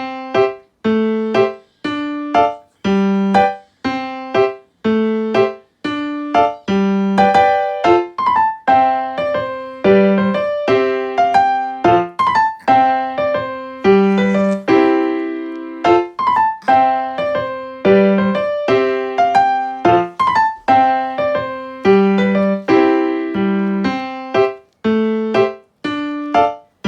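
Background piano music: a bouncy, rhythmic tune of short struck notes and chords over a repeating bass line.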